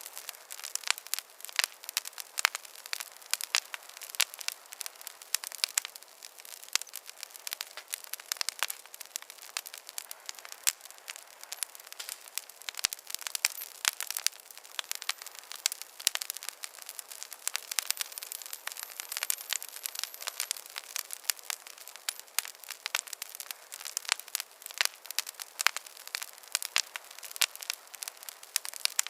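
Campfire crackling: dense, irregular sharp pops and snaps over a soft hiss of burning wood.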